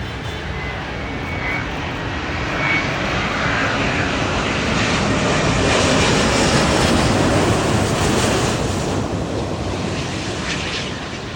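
Airbus A350-900 jet engines (Rolls-Royce Trent XWB turbofans) on a landing pass: a broad jet roar that grows louder, peaks about six to eight seconds in, then fades.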